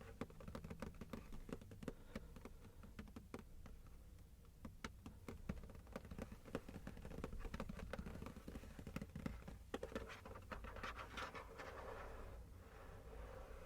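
Fingertips and nails tapping and scratching over a hard plastic gouache paint case: a quick, irregular run of light clicks, with a longer stretch of scratchy rubbing a little before the end.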